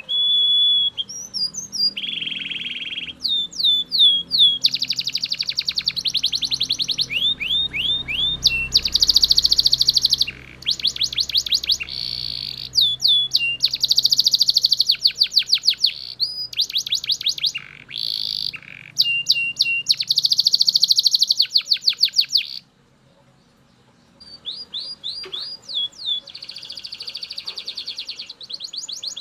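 Belgian canary singing a long, fast song of rapid trills and rolls interleaved with repeated down-slurred whistled notes. It breaks off for about a second and a half near the end, then starts again.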